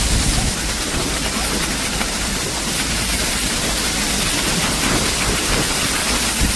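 Niagara Falls' water roaring steadily: an even, rushing noise with a deep rumble underneath.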